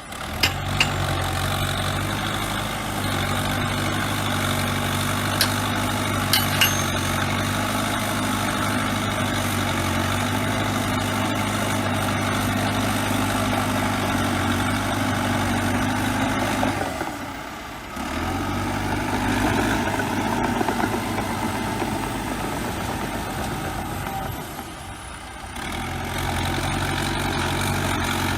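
Bulldozer diesel engine running steadily, with a few sharp metallic clanks in the first seven seconds. The engine sound drops away briefly twice, near 17 seconds and near 25 seconds.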